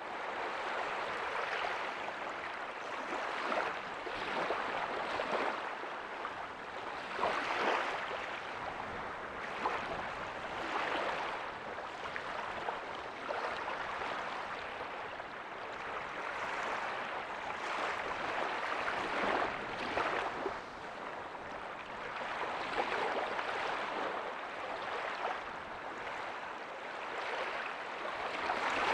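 Small waves breaking softly on a beach: a continuous wash of surf that swells and ebbs, with brief louder surges now and then.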